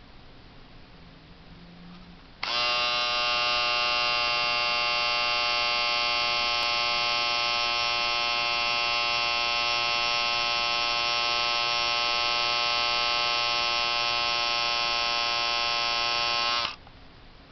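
Braun 5413 electric shaver switched on about two and a half seconds in, running with a steady, even hum rich in overtones, then switched off suddenly about fourteen seconds later.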